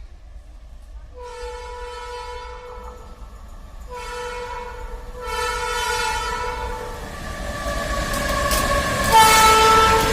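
WAG-12 electric freight locomotive's horn sounding several held blasts as the train approaches, with the rumble of the train growing beneath. The last blast, near the end, is the loudest and a little lower in pitch.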